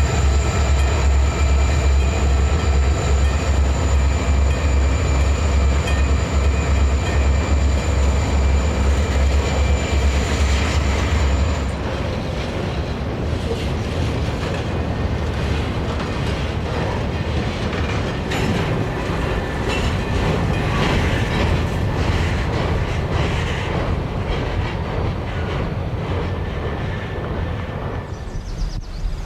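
Freight train led by EMD diesel locomotives passing: a heavy pulsing engine rumble with a steady whine for about the first eleven seconds, then the cars rolling by with the clack of wheels over rail joints.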